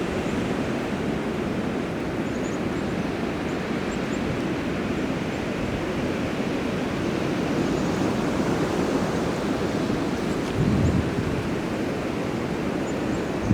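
Storm-force wind blowing as a steady, even rush of noise, with a brief low buffeting of wind on the microphone about three quarters of the way through.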